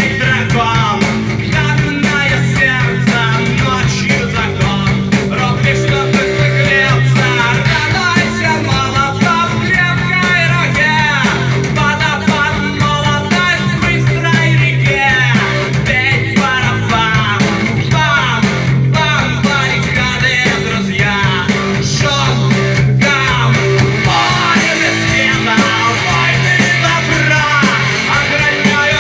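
Rock song played by a band with guitar and a singing voice, a cover of a Russian rock song.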